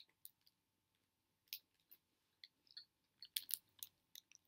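Quiet chewing and biting of a chocolate-coated wafer pie snack: scattered short, crisp crunches, more frequent in the second half.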